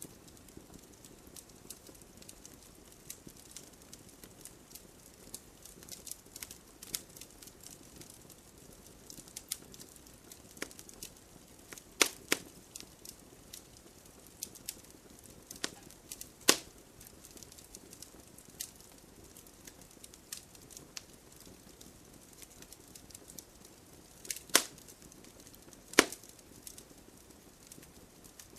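Wood fire crackling: a low steady hiss with scattered small pops and a few loud sharp snaps of burning wood.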